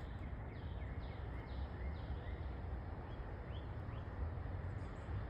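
Short bird chirps, a quick run of them over the first few seconds, over a steady low outdoor rumble of wind on the microphone.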